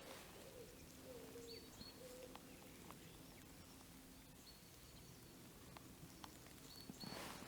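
Faint forest birdsong: small birds giving short, high, thin calls in pairs every second or two, with a lower wavering call in the first two seconds.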